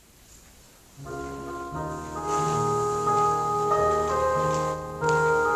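Near-silent room tone, then instrumental church music starts suddenly about a second in: held keyboard chords that build and change.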